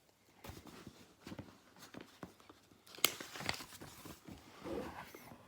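Pages of a picture book being handled and turned: soft paper rustles and small ticks, with one sharp click about three seconds in.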